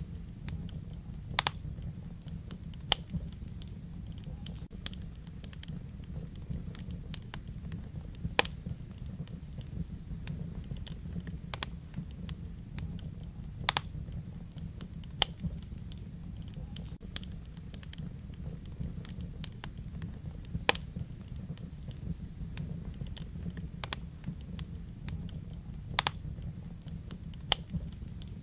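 Wood fire burning in a fireplace: a steady low rumble with irregular sharp crackles and pops, several louder snaps scattered through.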